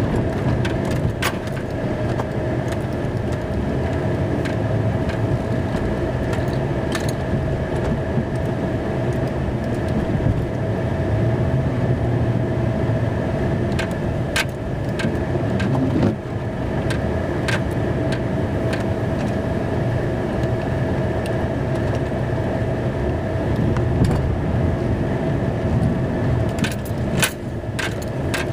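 Snow-plow truck running steadily, heard from inside the cab as a low rumble with a steady whine over it, plus scattered clicks and rattles while the driveway is plowed.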